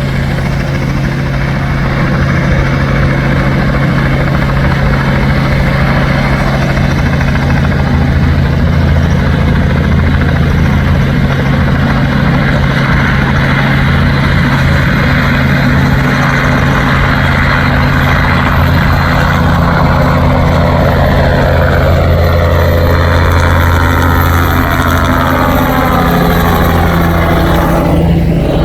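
Helicopter running close by: a steady low rotor drone with a pulsing beat underneath. In the last third a higher engine sound joins in, its pitch sliding down several times.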